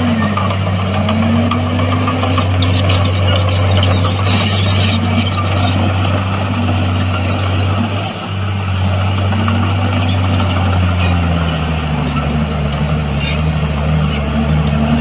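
Diesel engine of heavy earthmoving machinery running steadily, with a second tone rising and falling slowly several times as the engine speed and load change.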